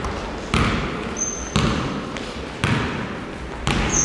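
A basketball bouncing on a hard gym floor about once a second, each bounce echoing in the hall, with a couple of short high squeaks between bounces.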